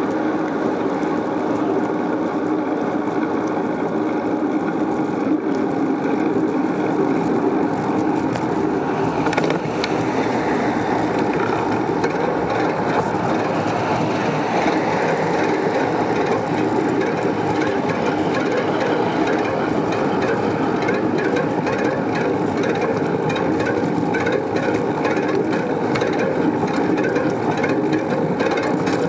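A bicycle in motion: continuous tyre and road rumble with a dense, steady rattle of small clicks, the noise of a ride picked up close to the bike.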